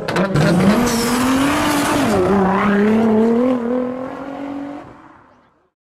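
Car sound effect: a few sharp clicks, then a single engine-like pitched note that rises and wavers before fading out.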